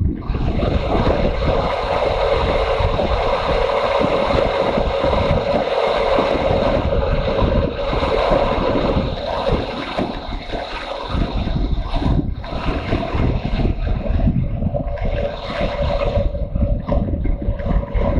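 Motorcycle engine running steadily while riding, under heavy wind buffeting on the microphone.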